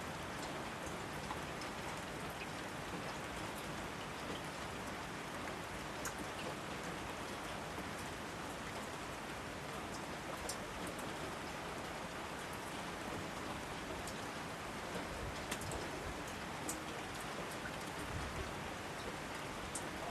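Steady rainfall, a dense even hiss with scattered sharper drips ticking through it.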